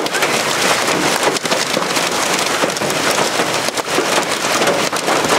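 Heavy rain and hail beating on a car's roof and windshield, heard from inside the cabin: a dense, loud hiss of rain with many sharp knocks of hailstones striking the body and glass.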